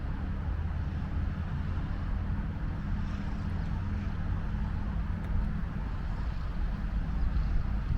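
Steady low engine rumble, running evenly throughout.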